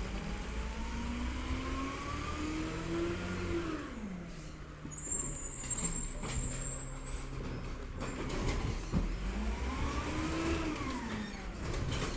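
Diesel engine of a Peterbilt 320 side-loader garbage truck revving up twice, its pitch climbing for a few seconds and then dropping back each time.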